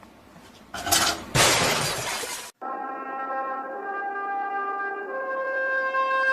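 A loud crash, twice in quick succession, that cuts off abruptly after about two seconds; then music with steady held notes begins.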